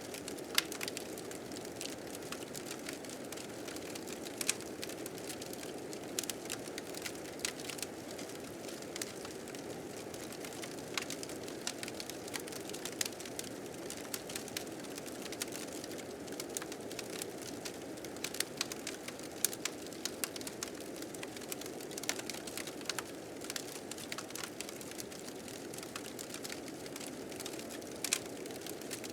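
Wood fire crackling with frequent sharp, irregular pops over a steady rushing of blizzard wind that swells and eases slightly.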